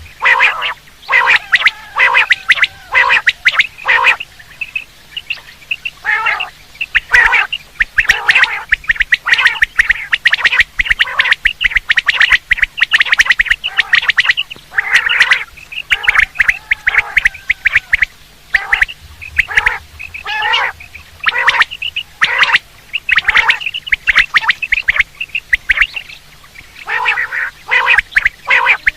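Quail (batair) calling: a long, loud run of short, sharp, rapidly repeated calls broken by a few brief pauses. This is a quail-call recording of the kind played to lure quail when hunting.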